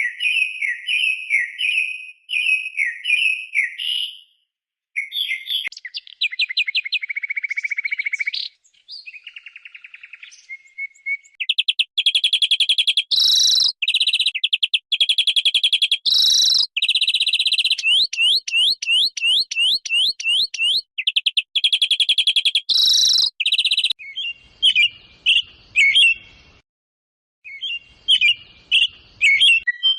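Birds calling and singing, several different kinds one after another: a run of short repeated falling notes, then fast trills and rattling phrases, then scattered short chirps.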